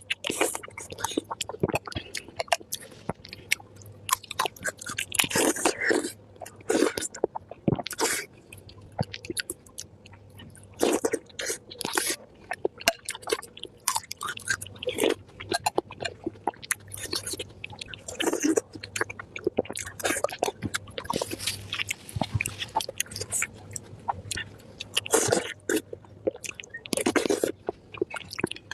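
Close-miked chewing of pork brain: irregular mouth smacks and soft chewing clicks, with short pauses between bites.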